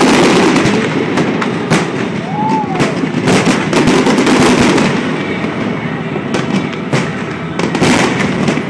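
Fireworks display: a rapid, irregular run of bangs and crackles over a continuous rumble, with a short rising-and-falling whistle about two and a half seconds in.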